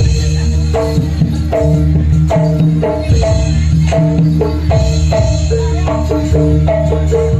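Jaranan accompaniment music: tuned percussion plays a quick, repeating pattern of short notes over a steady low drum-and-bass layer.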